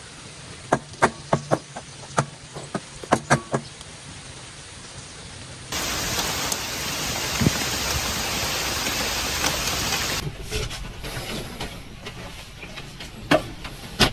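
Heavy rain, a loud even hiss that starts and stops suddenly for about four seconds in the middle. Before and after it, quieter rain with scattered sharp taps and clicks.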